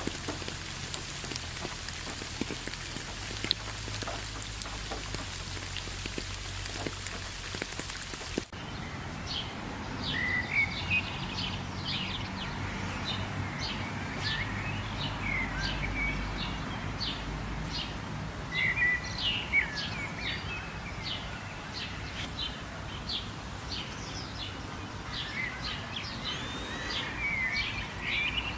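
Steady rain hissing, then an abrupt change about a third of the way in to many short, quick bird chirps over a softer steady hiss.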